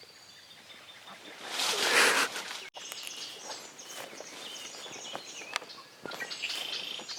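Small songbirds chirping and singing in the woods, with a loud rushing burst of noise about two seconds in.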